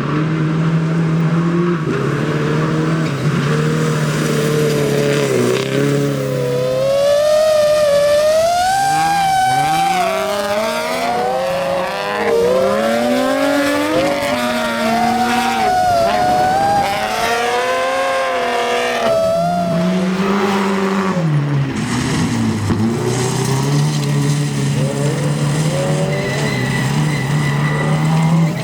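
Rally car engine at speed, its pitch rising and falling with gear changes and throttle. Through the middle stretch the revs swing widely up and down, then settle back to a steadier, lower note near the end.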